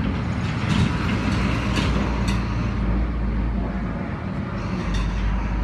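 A steady low mechanical rumble with scattered light clicks, like a running engine or machine.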